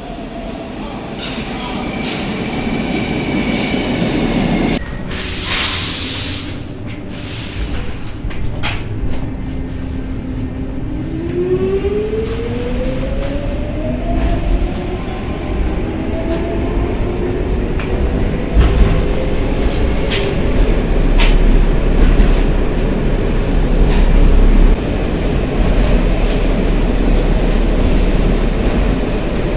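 An old-type Stockholm metro train pulling away and gathering speed. Its motors give a whine that rises in pitch from about eleven seconds in, over a rumble of wheels on rail that grows louder, with scattered clicks and knocks. A short hiss comes about five seconds in.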